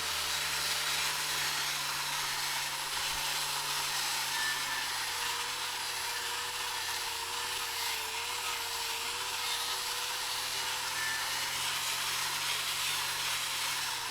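Angle grinder with a wire wheel brushing rust off a steel bracket: the motor runs steadily under load with a continuous harsh scouring hiss.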